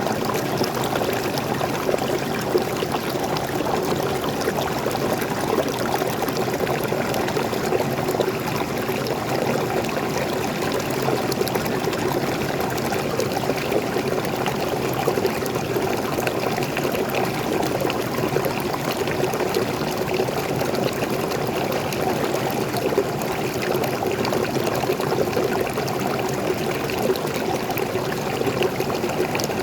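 Waterfall pouring and splashing steadily: an even, unbroken rush of flowing water.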